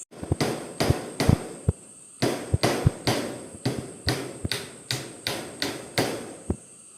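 A hand tool striking bamboo in a steady run of sharp knocks, about two or three a second, stopping shortly before the end.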